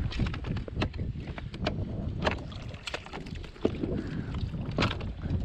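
Wind rumbling on the microphone aboard a kayak, with many small irregular knocks and splashes.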